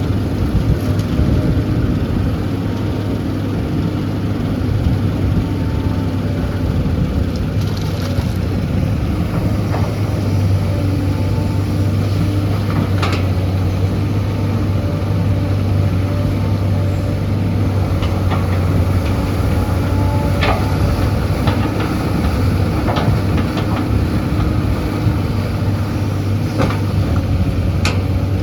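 Heavy diesel engine of earthmoving equipment running steadily at a constant pitch, with scattered short, sharp knocks.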